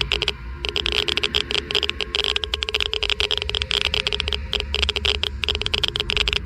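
Geiger–Müller counter clicking rapidly and irregularly, many clicks a second in uneven clusters with short gaps, over a low steady hum. A click rate this high means the counter is picking up strong ionizing radiation.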